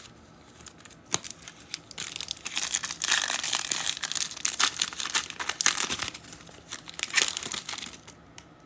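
Foil trading-card pack wrapper being torn open and crinkled by hand, a few light clicks and then about six seconds of steady crackling that dies away shortly before the end.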